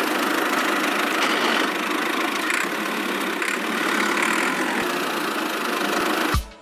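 Small motor running steadily with an even mechanical whirr, cutting off suddenly near the end.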